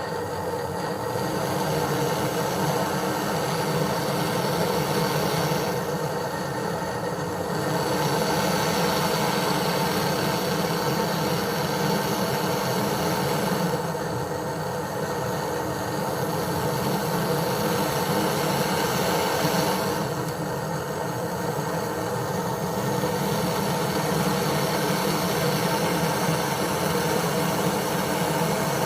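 A motor running steadily with an even mechanical hum.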